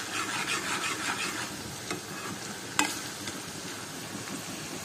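Sliced onions, green chillies and gram flour frying in oil in a wok with a steady sizzle, stirred with a steel ladle that scrapes the pan. One sharp clink sounds about three seconds in.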